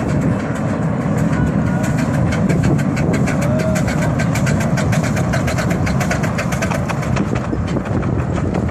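Cagney miniature steam locomotive running, a steady low rumble with a rapid, even run of short ticks and clatter over it.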